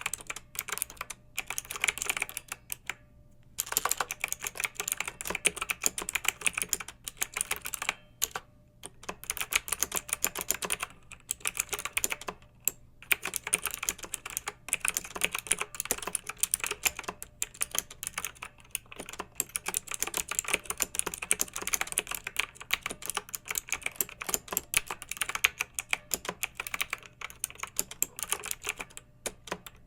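Fast typing on a clicky mechanical keyboard, dense runs of sharp key clicks broken by brief pauses of under a second.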